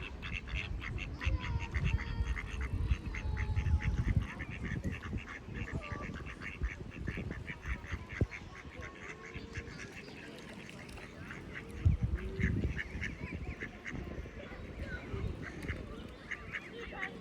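Birds calling in rapid runs of short repeated notes, with low rumbling bumps near the start and again about twelve seconds in.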